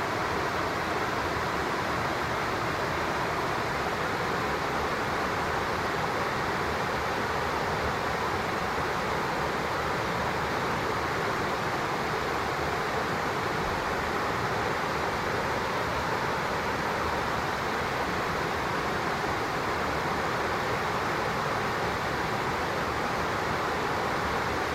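Steady rushing of a flowing river, an even hiss that does not change.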